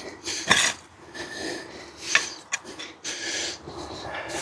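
Hands and a garden fork working through loose soil to pull up potatoes: scraping and rustling of earth, with a few sharp knocks about half a second in and about two seconds in, and some heavy breathing.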